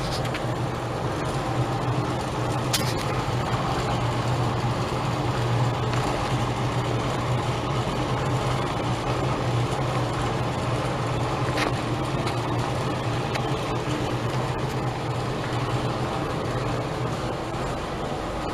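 Exhaust fan running steadily: an even whir with a strong low hum and a couple of faint clicks.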